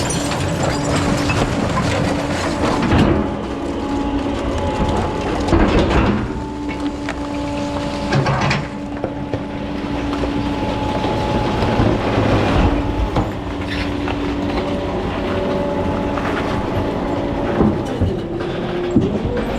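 Rear-loader recycling truck running, with a steady whine that cuts out and comes back several times over a rattling mechanical noise, and several loud clanks.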